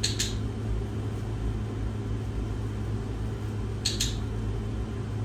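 A steady low hum in a small room, with two pairs of short, sharp clicks: one pair right at the start and another about four seconds in.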